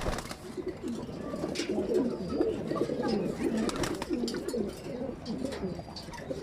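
Several racing pigeons cooing at once, their low rolling coos overlapping steadily, with a few sharp clicks among them.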